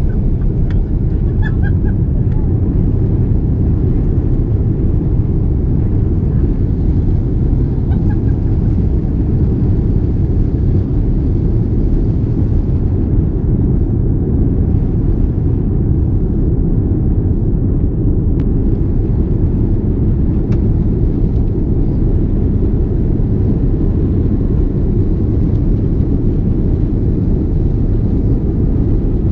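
Airbus A330 engines and airflow heard inside the passenger cabin during takeoff: a loud, steady, deep rumble with no rise or fall in level.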